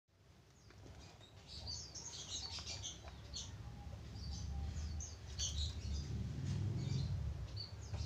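Small birds chirping: short, high-pitched chirps scattered throughout, over a low rumble that grows louder toward the end.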